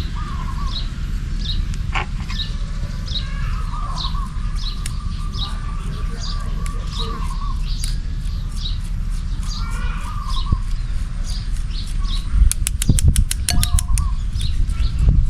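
Birds calling: a short high chirp repeats about once a second, with lower warbling calls between, over a steady low rumble. From about twelve seconds in, a run of rapid sharp clicks or taps comes in and is the loudest sound.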